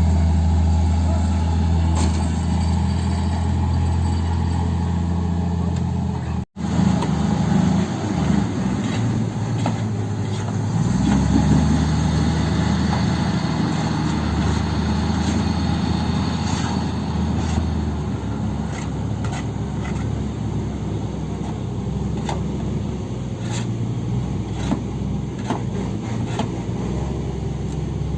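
Heavy diesel engine running, first a steady deep note; after a sudden break about six seconds in, the engine note rises and falls under load, with scattered knocks and clanks.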